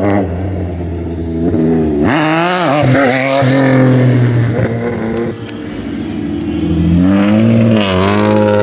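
Car engine running loudly, then revved about two seconds in, its pitch rising and wavering. It drops back around five seconds and climbs again near the end.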